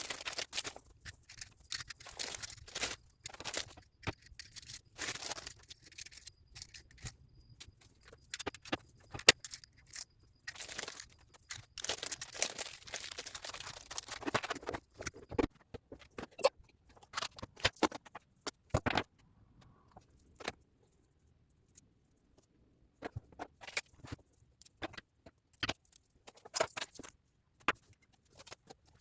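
Loose beads clicking, rattling and scraping on a tabletop as they are swept and sorted by hand, with a short pause about two-thirds of the way through.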